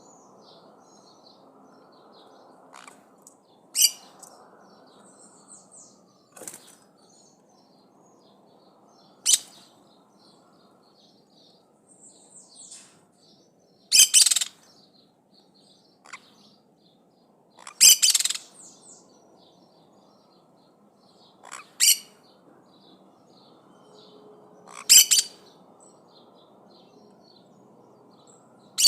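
Maritaca parrots giving short, harsh calls every few seconds, over faint high twittering of other birds.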